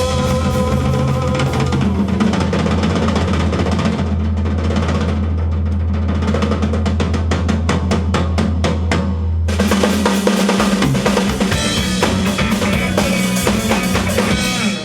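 Live rock band playing an instrumental passage: drums and a held low bass note, with a fast run of drum strokes from about four seconds in. Around nine and a half seconds in, the full band comes back in.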